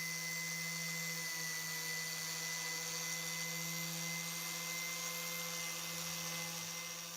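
Small electric power tool running steadily with a constant whine, beginning to fade out near the end.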